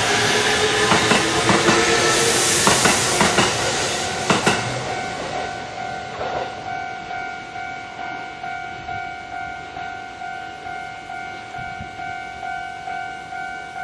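An electric commuter train passing over a level crossing, its wheels clacking over rail joints under a rising motor whine, dying away about four and a half seconds in. The crossing bell keeps ringing in a steady, even pulse.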